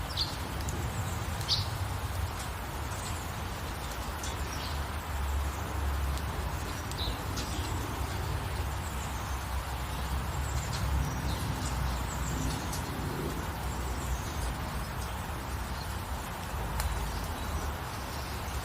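Steady rain hiss with a low rumble underneath, and birds chirping here and there, short high calls that come more often in the first half.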